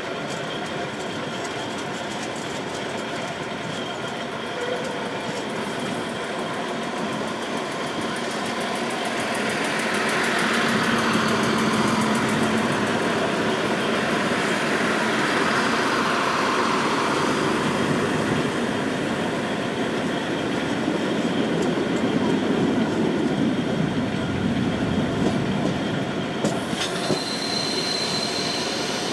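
Running noise of a train heard from an open carriage window: steady rumble and wheels on the rails. About ten seconds in, a DB Regio class 642 diesel railcar passes close on the next track and the noise swells for several seconds; a thin high wheel squeal comes in near the end as the train runs through a curve.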